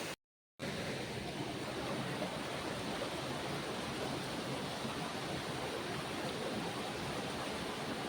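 Waterfall: a steady rush of falling water, cut to silence for a split second just after the start.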